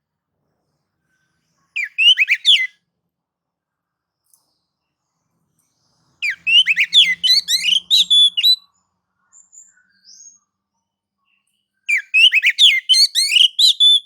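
Oriental magpie-robin (kacer) singing in three loud bursts of rapid, varied whistled notes, with a few faint notes between the second and third. This is the bird's aggressive 'nagan'/'ngobra' song, the kind used to provoke other males into singing.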